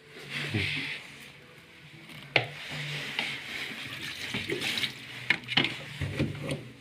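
Water being poured and splashing as a dirty washing-machine part is rinsed by hand, with a sharp knock about two and a half seconds in and two more near the end.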